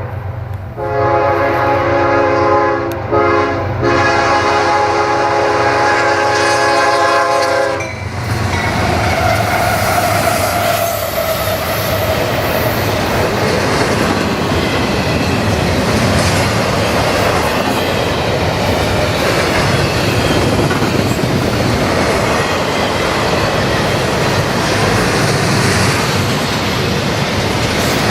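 Diesel locomotives of a CSX intermodal freight train sound a multi-note air horn: a long blast, a short one, then a longer one ending about eight seconds in. After that comes the steady loud noise of the train passing, its wheels clacking over the rails.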